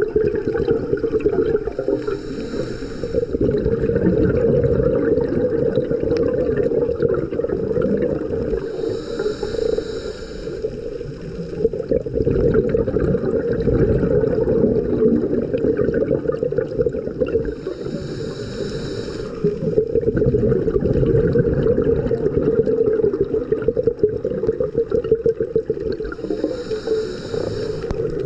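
Scuba diver breathing through a regulator underwater: a steady bubbling rumble of exhaled air, with a short hissing inhalation about every eight seconds, four in all.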